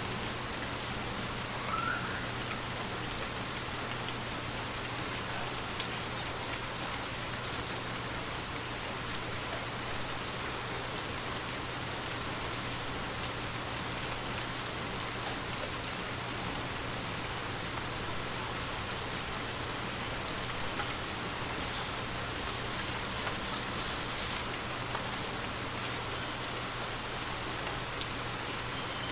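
Steady rain falling in an even hiss, with scattered individual drops ticking.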